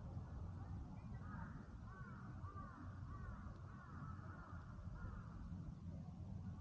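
A bird giving a series of short arched calls, about two a second from about a second in until about five seconds in, over a steady low rumble.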